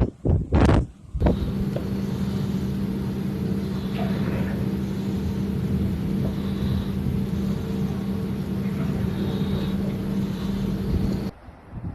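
A motor vehicle's engine running steadily at an unchanging pitch. Wind gusts buffet the microphone for about the first second, and the engine sound cuts off abruptly near the end.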